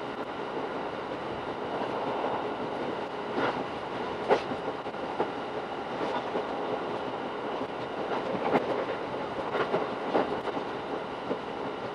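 Running noise of a Shinano Railway SR1-series electric train heard from inside the car: a steady rush of wheels on rail with a few sharp clicks scattered through, the loudest about four seconds in.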